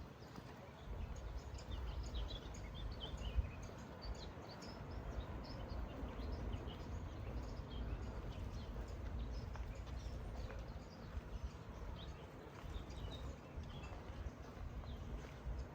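Small birds chirping in many short high calls throughout, including a quick falling run of notes about three seconds in, over a steady low outdoor rumble.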